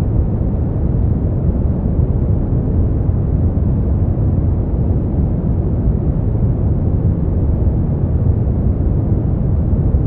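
Continuous generated noise for sleep, played steadily at an even level. It is deep and rumbling, weighted to the low end, with no high hiss.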